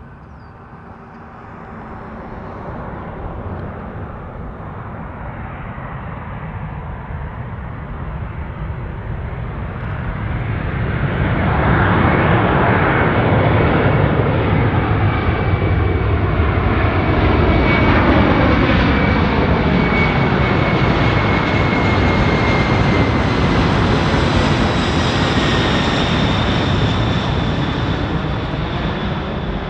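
Military jet aircraft flying past, its engine noise building about a third of the way in and staying loud, with a high whine that slides down in pitch as it goes by.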